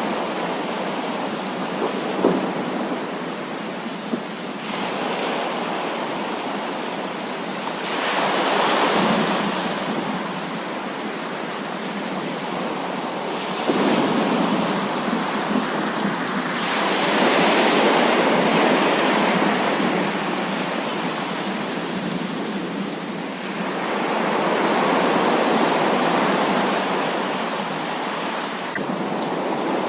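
Heavy rain falling steadily, with thunder rolling in and fading away three times, each roll a long swell of several seconds. A couple of sharp drop ticks stand out briefly.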